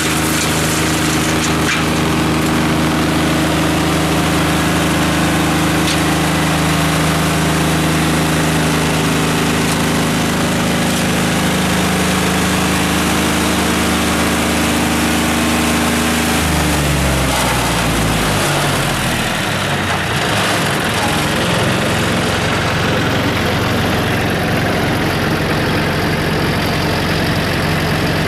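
A Skorpion 280 SDBG drum wood chipper's three-cylinder diesel engine runs steadily at working speed. About two-thirds of the way through, its revs fall over a few seconds and settle into a steady idle.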